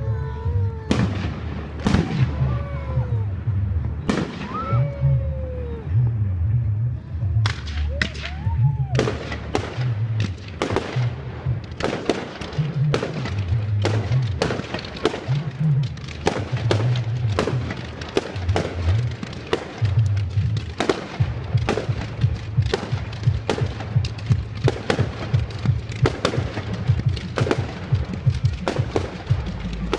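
Fireworks going off: a string of sharp bangs and crackles that turns into rapid, nearly continuous firing about eight seconds in, with a few short whistles among the early bangs.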